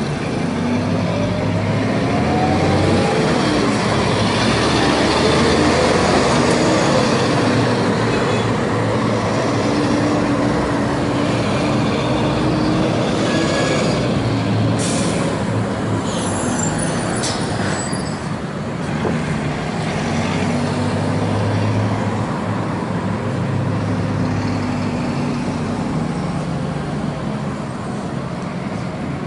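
Agrale MT 17.0 LE city bus's four-cylinder diesel engine running under way, its pitch rising as it revs up over the first few seconds, then running fairly steadily. Brief high hisses and clicks come about halfway through.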